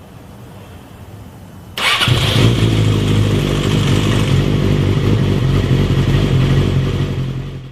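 Motorcycle engine starting: a quiet lead-in, then the engine catches loudly about two seconds in and runs at a steady, even note before cutting off suddenly at the end.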